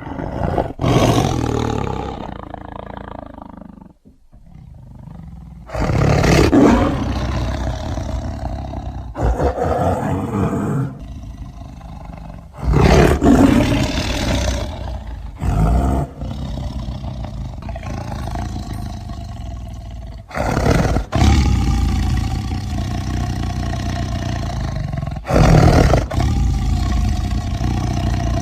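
A large wild animal roaring and growling, loud and deep, in several separate stretches that start abruptly one after another.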